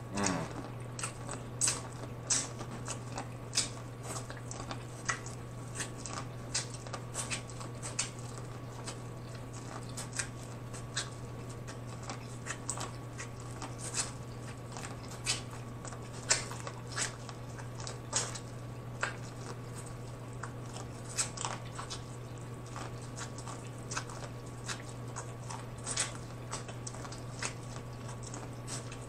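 Corn on the cob being bitten and chewed, the kernels giving irregular crisp, wet crunches and mouth clicks, over a steady low hum.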